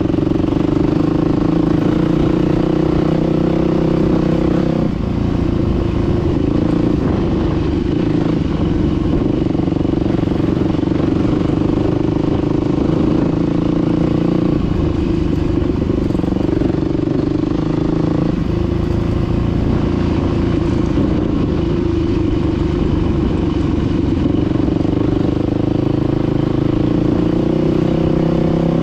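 Dirt bike engine running steadily while riding, its note shifting in pitch several times as the throttle changes.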